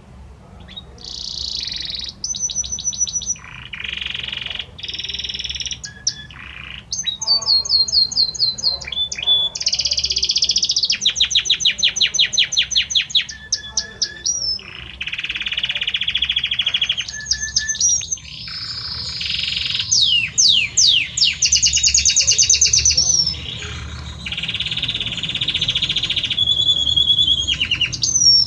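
Male Belgian canary singing its courtship song to a female. The song begins about a second in and runs as a continuous string of fast trills and rolls of rapidly repeated notes, switching to a new phrase every second or two.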